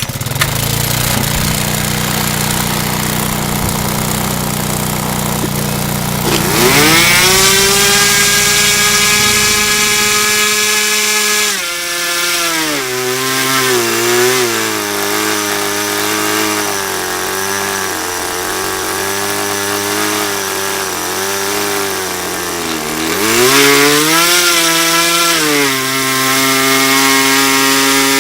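OS 15 Max FP 2.5 cc glow-plug two-stroke model engine running, loud. It runs slow for about the first six seconds, then revs up to a high whine, its speed dipping and rising several times, dropping low once near the end before climbing back to a steady high-speed run.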